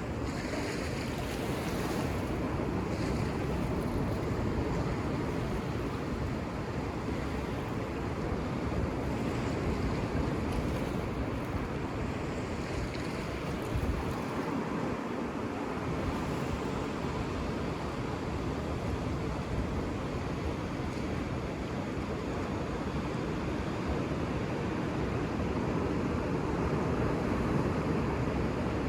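Ocean surf washing onto a beach: a continuous rushing noise that swells and eases only slightly, with a low rumble underneath.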